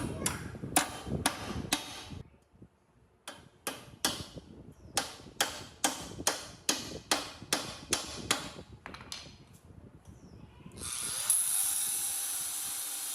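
Workshop tool work: a run of sharp clicks or taps, a short pause, then another run of about a dozen at two or three a second. About eleven seconds in, a loud steady hiss of spray or air starts.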